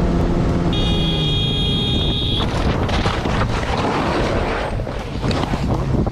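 Vehicle on the move with wind buffeting the microphone. A high, steady tone sounds for under two seconds, starting about a second in.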